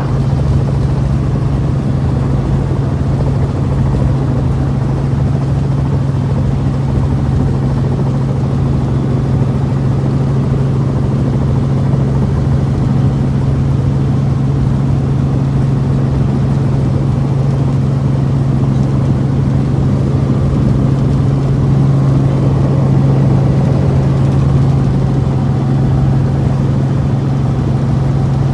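Helicopter engine and rotor running steadily, heard as a constant loud drone from inside the cabin.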